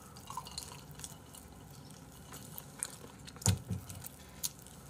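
Close-miked chewing and biting of a sauced fried chicken drumstick, with small wet clicks and crunches. A single low thump about three and a half seconds in.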